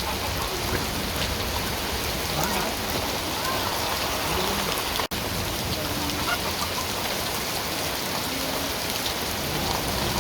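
Steady rain falling and pattering on surfaces, with a brief cut-out about five seconds in.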